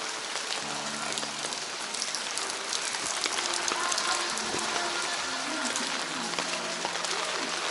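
Steady heavy typhoon rain falling, with many fine drop ticks over a dense hiss.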